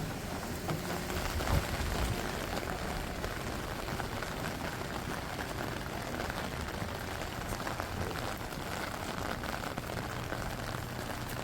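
Steady rain falling, a dense patter of drops on surfaces close to the microphone.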